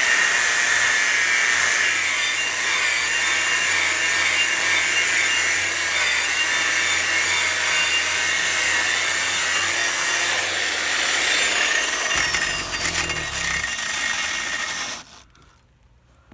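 Harbor Freight 11-amp angle grinder grinding against a wooden deck board, abrading off a Rust-Oleum Deck Restore coating: a steady, loud grinding with a wavering motor whine. Late on the whine falls in pitch, and the sound stops about a second before the end.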